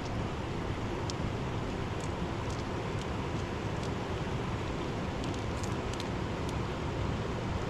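Steady rush of a mountain river, an even, unbroken noise heaviest in the low end, with faint brief high ticks now and then.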